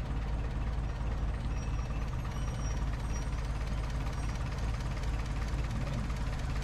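Suzuki Sidekick 1.6-litre 16-valve four-cylinder engine in a Suzuki Samurai idling steadily, with the headlights and all accessories switched on, a heavy electrical load on its alternator.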